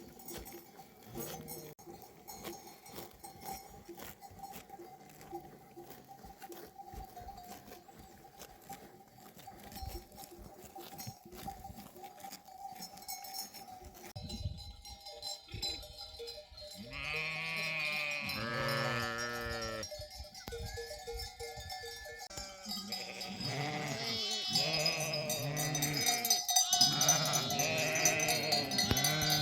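A flock of sheep and goats with bells clinking, and lambs and kids bleating. The bleats start past the middle and build into many overlapping calls, growing louder near the end.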